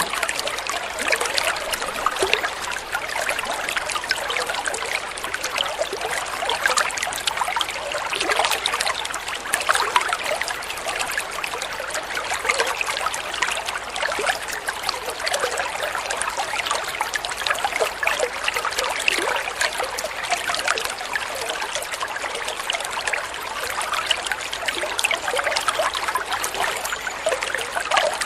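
Flowing water trickling and splashing steadily in a stream, with many small irregular splashes.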